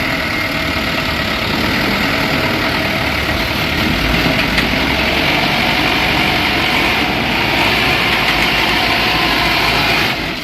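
Dump truck engine running steadily, loud and even, dropping off sharply near the end.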